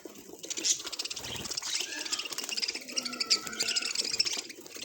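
Budgerigar chattering: a dense run of quick high clicks and crackles broken by a few short chirps.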